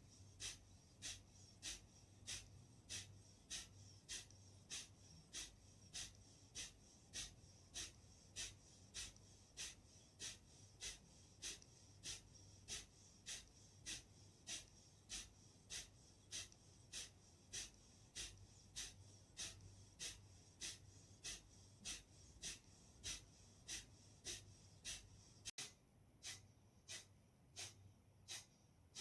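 Kapalbhati breathing: short, forceful exhalations through the nose in an even rhythm, nearly two a second, over a faint steady low hum.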